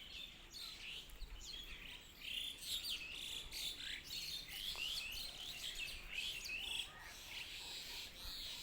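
Birds chirping and twittering, many short high calls overlapping in quick succession, busiest through the middle and thinning out near the end.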